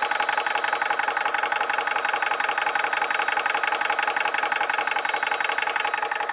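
Portable 12-volt high-pressure PCP air compressor running steadily, with a fast, even pulsing of its piston strokes. It is pumping against a quick-connect one-way valve fitted backwards, so the air builds up inside the compressor instead of filling the rifle, which the owner gives as the reason its valve burst.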